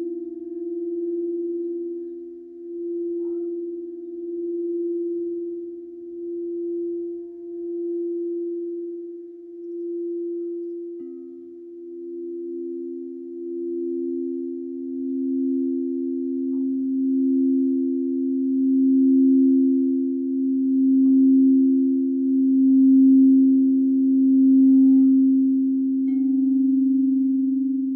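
Singing bowls being rung in a sustained drone: a clear tone with a slow wavering swell, and a second, lower bowl joining about eleven seconds in and growing louder.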